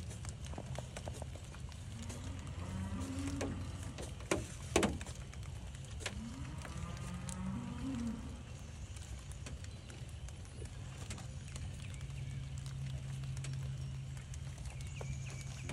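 Cattle lowing: two low, drawn-out moos that rise in pitch, over a steady low hum and light hiss, with two sharp clicks a little after the first moo.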